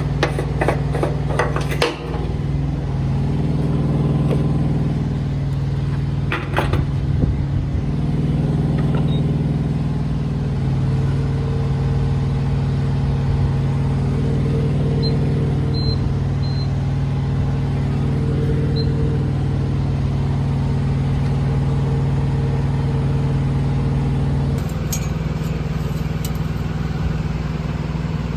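Semi truck's diesel engine running steadily, heard from the cab, its pitch stepping to a new level a few times as the truck goes through the gears. A cluster of sharp clicks near the start and again about six seconds in.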